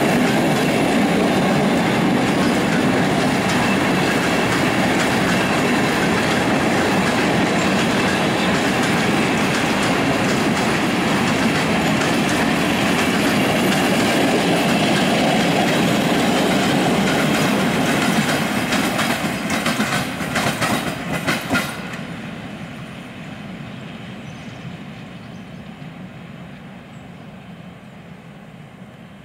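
Loaded flat wagons of a freight train carrying rails rolling past close by: a steady rumble and rattle of wheels on the track. About two-thirds of the way through, the last wagons pass with a run of sharp wheel clacks over rail joints, then the sound fades steadily as the train moves away.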